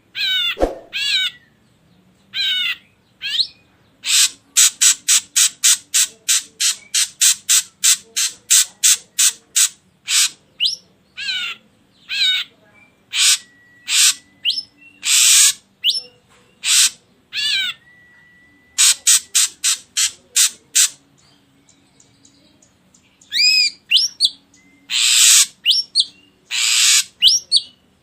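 Ashy drongo calling: a varied string of sweeping whistled notes, then a fast run of short sharp notes at about three or four a second, later broken by harsher raspy calls and a short pause.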